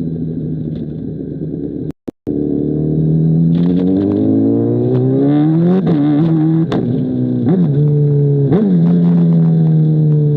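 A 2005 Honda CBR1000RR's inline-four engine, breathing through an SC Project CR-T aftermarket exhaust, heard on the move. The note is steady at first and drops out briefly about two seconds in. It then climbs in revs, dips sharply for a moment three or four times as the gears change, and holds a steady note near the end.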